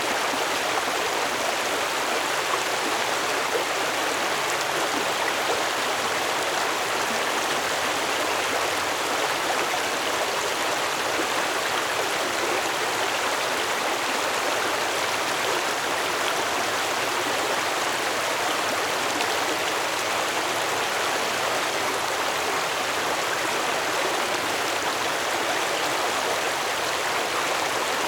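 A stream flowing, a steady rushing and babbling of water.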